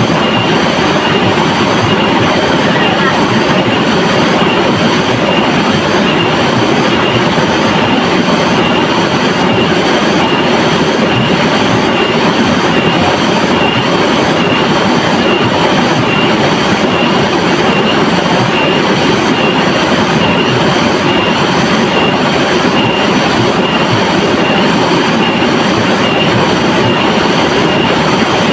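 River water rushing in a steady, loud, even hiss. A faint high chirp repeats about twice a second over it.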